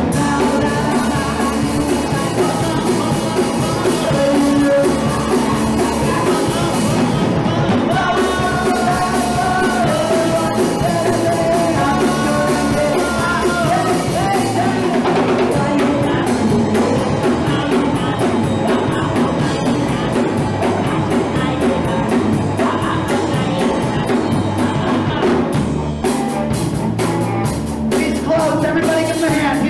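Live punk rock band playing: loud distorted guitar, bass and drum kit, with shouted vocals.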